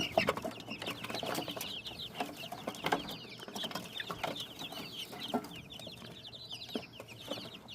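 A brood of baby chicks peeping continuously, a dense chorus of short high chirps, with a few light knocks in between.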